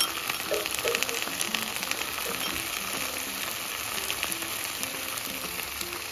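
Chicken breasts and diced bacon sizzling in olive oil in a nonstick frying pan, a steady frying hiss with fine crackles and pops.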